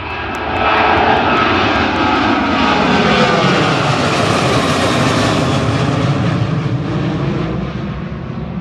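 Jet airliner passing low overhead, its engines' whine sliding down in pitch as it goes by over a broad roar. The sound swells about a second in and then slowly fades.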